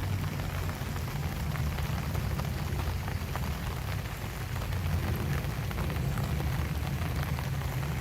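Steady rain falling, with a dense patter of individual drops over a constant low rumble.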